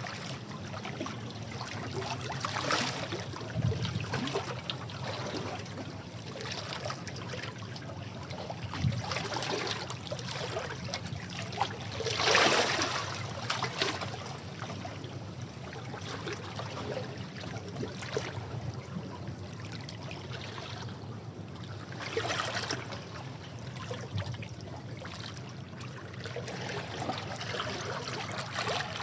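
Sea waves washing over rocks: a continuous rushing wash that swells and ebbs irregularly, the biggest surge about twelve seconds in.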